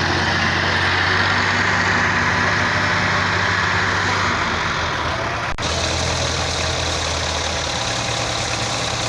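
Diesel tractor engine running steadily, with a brief click about halfway through.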